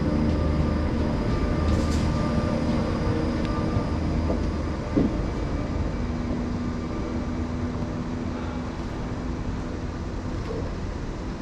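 Train running at a station: a steady low rumble with several held humming tones from its engine or motors, slowly fading as it moves away. There is a brief high click about 2 seconds in.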